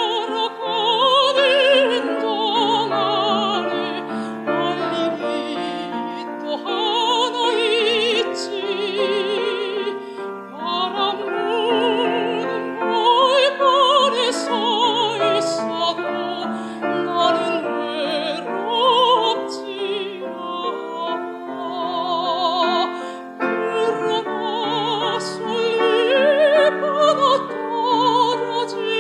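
Operatic singing with strong vibrato over piano accompaniment, continuous throughout.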